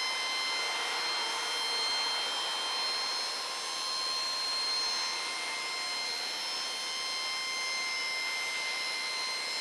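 Hydraulic hoist pump of a small dump truck whining steadily at a constant high pitch while the dump body is operated.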